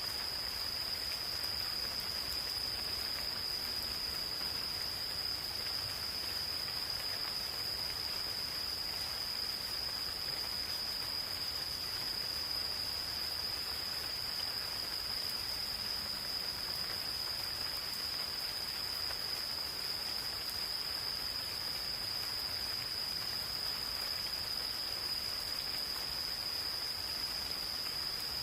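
Gentle rain falling steadily in a forest, with insects calling in one continuous, unbroken high-pitched trill.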